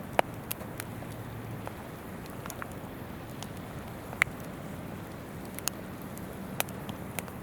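Wood campfire crackling, with a few irregular sharp pops over the steady rush of a flowing river.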